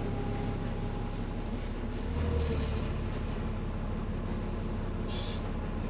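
Diesel engine of bus DW447 running steadily, heard from inside the bus; the bus has an exhaust leak. The low rumble swells briefly about two seconds in, and a short hiss comes about five seconds in.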